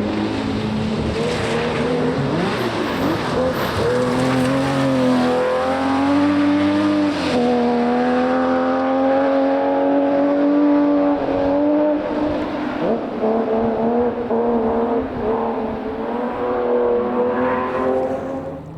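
Rally car engine running hard at high revs, its pitch climbing and dropping sharply at each gear change, several times over.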